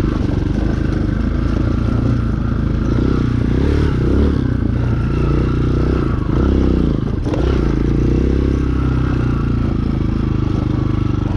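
Chinese 250cc dirt bike engine in first gear, revving up and down as it labours through deep mud; the engine pitch climbs and drops several times in the middle stretch.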